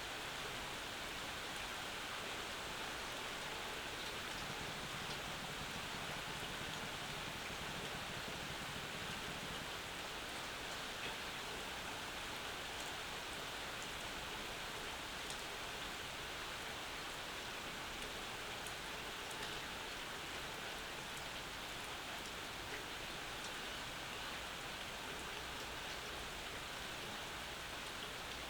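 Steady rain falling, an even hiss with scattered close drops ticking.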